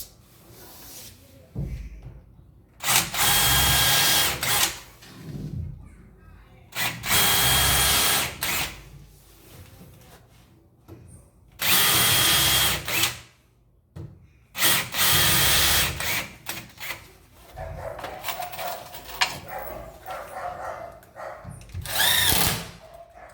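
Power drill running in four separate bursts of about two seconds each, with quieter handling knocks between them.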